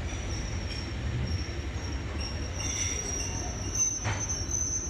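A steam-hauled heritage train behind Hunslet Austerity 0-6-0ST saddle tank NCB No.19 rumbles along the rails. A high, thin squeal grows louder from about halfway, and there is a single knock about four seconds in.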